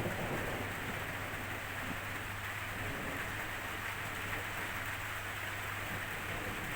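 Steady rainfall: an even hiss of rain falling.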